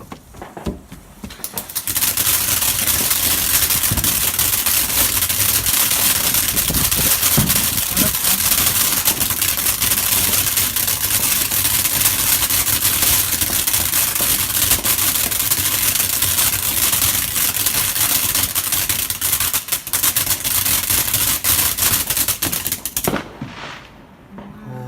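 Garden firework crackling rapidly and continuously, a dense run of sharp pops like a machine gun. It starts about two seconds in and stops abruptly a second or two before the end.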